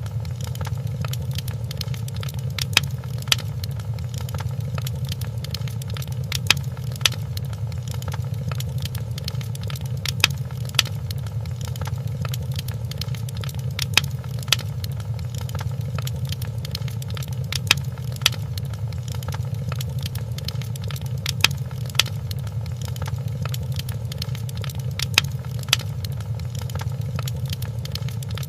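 Wood fire crackling in a fireplace: sharp pops, a louder one about every four seconds, over a steady low rumble of the flames.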